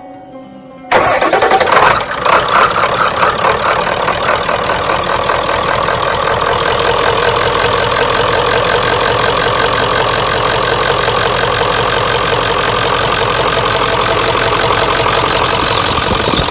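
1996 Ford F-350's 7.3 L Powerstroke turbo-diesel V8 starting up about a second in. It runs loudest for a moment, then settles into a steady diesel idle.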